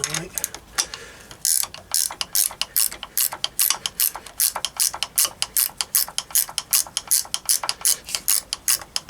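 Socket ratchet wrench clicking quickly, about five clicks a second, as a nut is worked off the engine's timing side. The clicking starts about a second and a half in.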